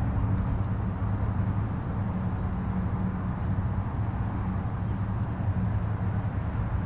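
Steady low rumble of distant highway traffic, an even wash of tyre and engine noise with no single vehicle standing out.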